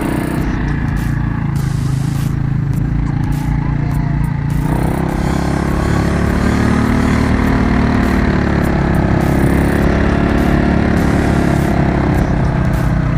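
Quad bike engine running under way, its pitch rising and falling with the throttle. It picks up and runs harder about four and a half seconds in.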